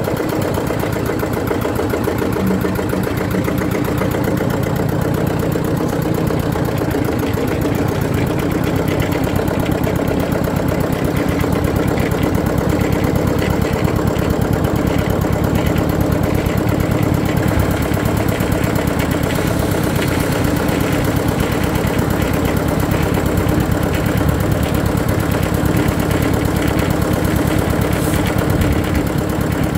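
Eicher tractor's air-cooled diesel engine idling at zero throttle, its exhaust beating rapidly and evenly; it becomes slightly louder about eight seconds in.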